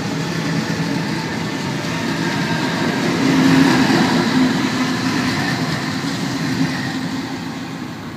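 A train passing, its running noise and low motor tones swelling to a peak about halfway through, then fading away.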